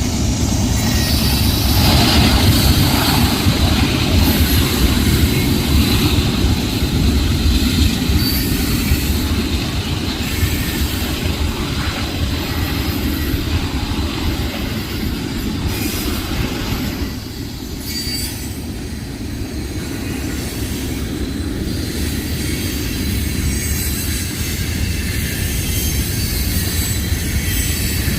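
Freight train rolling past at close range: a steady low rumble of wheels on rail, with a thin high tone running through it.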